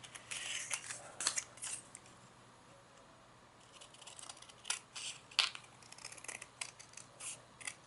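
Scissors snipping through paper cards: a string of short cuts, a pause of a second or two, then another run of cuts.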